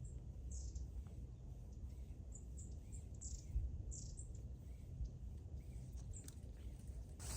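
Small birds chirping: short, high, down-slurred chirps every second or so, some in quick pairs, over a faint low steady rumble.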